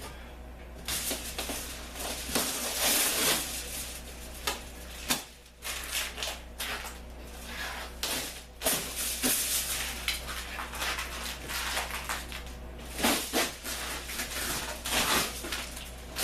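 Irregular rustling, crinkling and knocking of materials being handled and pulled apart, in uneven bursts with short pauses, over a steady low hum.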